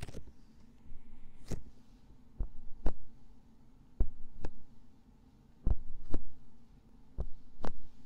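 Heartbeat heard close up through a microphone: paired lub-dub thumps about half a second apart, repeating roughly every one and a half seconds, over a low steady hum.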